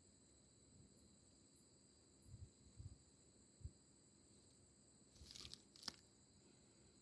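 Near silence: a faint steady high-pitched tone, a few soft thumps, and a brief rustle ending in a click near the end.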